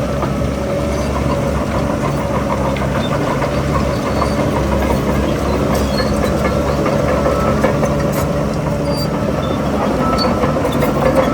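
Heavy diesel engine of earthmoving machinery running steadily, with scattered light metallic clicks and clanks over it.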